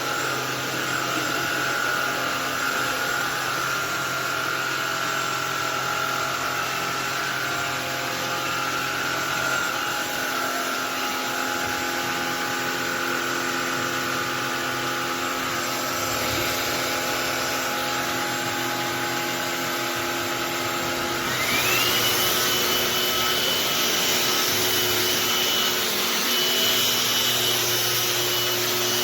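A cordless stick vacuum cleaner runs steadily with a motor hum and a rush of air. About two-thirds of the way through, its motor whine rises to a higher pitch and it runs louder from then on.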